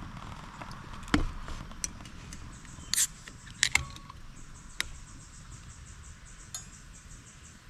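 An insect chirping in a fast, even pulse of several beats a second, starting about two and a half seconds in, with a few sharp clicks and knocks over it.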